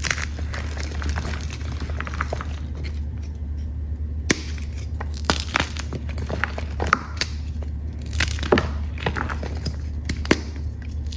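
Chalk being crushed, sharp irregular cracks and crunches with crumbly crackle between them, over a steady low hum.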